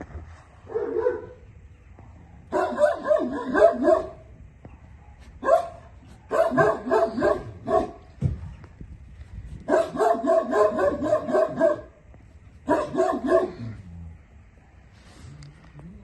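Six-month-old Central Asian Shepherd puppy barking in repeated bouts of quick barks, with short pauses between the bouts.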